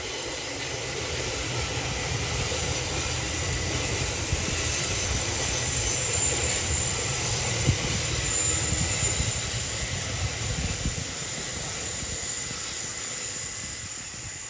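Electric train running on the rails: a steady rumble of wheels that builds to a peak about halfway through and then fades, with a faint high whine above it.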